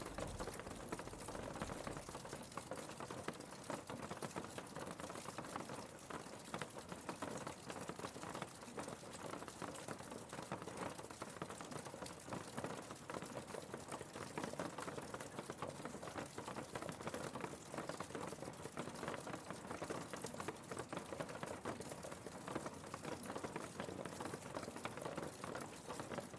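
Steady rain with many small drops pattering. A low rumble dies away in the first couple of seconds.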